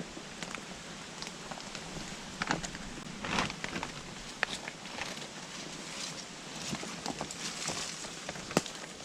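Footsteps through dry undergrowth, with scattered crackles and snaps of twigs and leaves and one sharp snap near the end.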